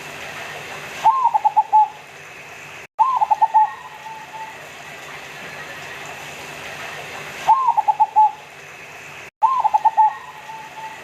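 Local-type zebra dove (perkutut lokal) cooing: four phrases in two pairs, each a rising opening note followed by a quick run of short rolling notes, over a steady hiss.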